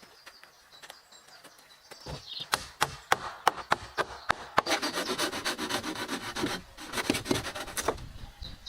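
Wood being worked by hand with a rubbing tool. It starts with a run of sharp knocks and scrapes about two seconds in, then turns to fast, rough rubbing strokes.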